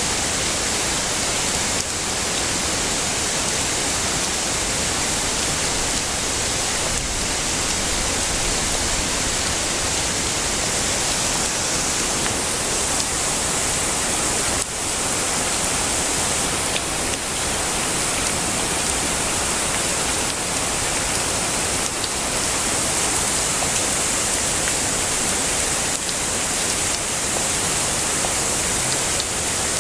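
Heavy rain falling steadily: an even, unbroken hiss, strongest in the high range, with no thunder.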